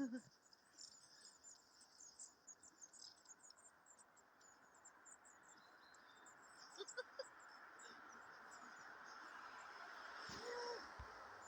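Small songbirds calling: many short, high-pitched chirps, faint in a winter forest. A soft hiss swells gradually in the second half.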